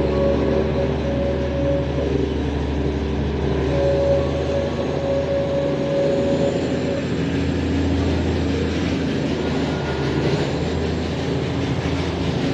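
Diesel-hauled narrow-gauge Darjeeling Himalayan Railway train running, heard from on board: a steady low engine drone with the rumble of the wheels on the rails. A higher steady tone fades in and out a few times.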